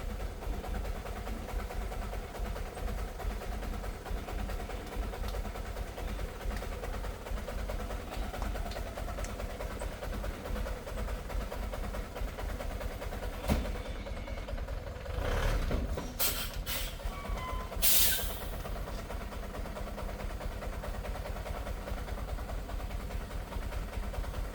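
Vehicle engine running steadily with a low rumble, with a few short knocks and clatters about two-thirds of the way through.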